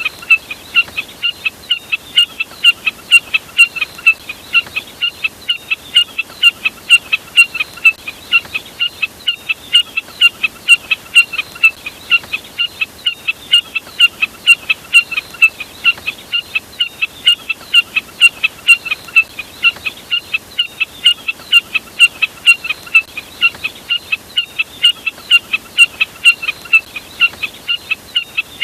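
Bird calls labelled as a jack snipe: short, sharp notes repeated rapidly and evenly, about three to four a second, in an unbroken series.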